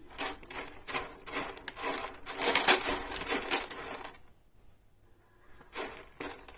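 Kitten scratching cat litter to bury its droppings: a run of quick scrapes, loudest in the middle, a pause, then more scraping near the end.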